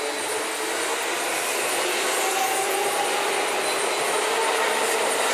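Hokusō Railway 9000-series electric commuter train rolling past on the track: steady wheel-on-rail running noise, getting slightly louder, with faint thin tones riding over it.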